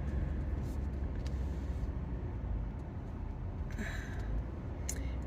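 Steady low rumble of a car's engine and road noise heard inside the cabin, with a couple of faint brief rustles near the end.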